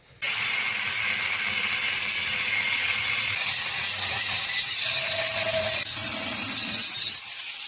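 Power cutting tool slicing through the shell of an old refrigerator compressor along its weld seam: a steady, bright grinding noise that starts suddenly and runs on evenly.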